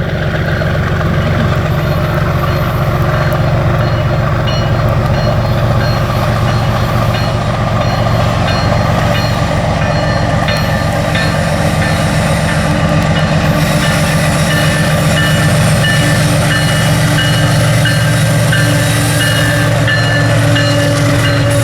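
Diesel freight train running past: a steady low engine hum over the rumble of the wheels and wagons, growing slightly louder.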